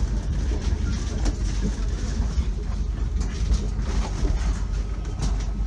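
Steady low rumble of a passenger train, with scattered, irregular knocks and rattles.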